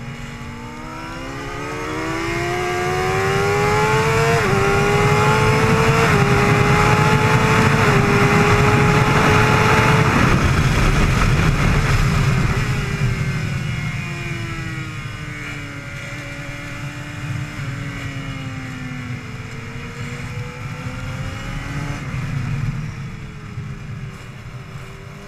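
Suzuki GSX-R750's inline-four engine accelerating hard, its note climbing and dropping with three upshifts about four, six and eight seconds in. Heavy wind rush over the helmet-mounted camera peaks just after ten seconds as the engine note fades off throttle. The engine then runs lower through the next corner and builds again near the end.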